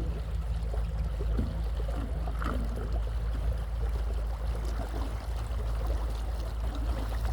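Water trickling and gurgling along a small boat's hull as it moves, over a steady low rumble.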